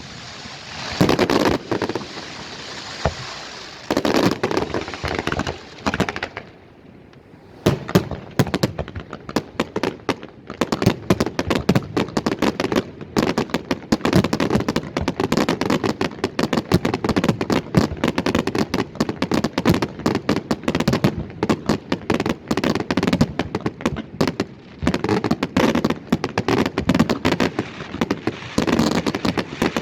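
Fireworks display: rapid bangs and dense crackling bursts going off one after another, easing briefly about a quarter of the way in, then a near-continuous run of popping and crackling.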